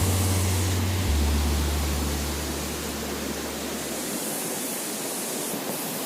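Steady rush of falling or flowing water, an even hiss across all pitches. Low background music tones sit under it and fade out about four seconds in.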